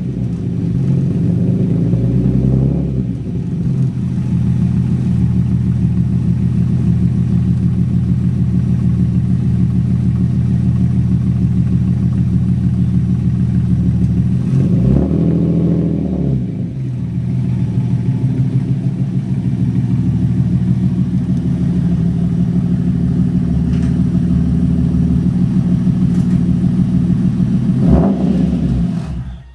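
TVR T350c's straight-six idling through a de-catted straight-through exhaust with Cherry Bomb silencers, with throttle blips early on, about halfway through and near the end.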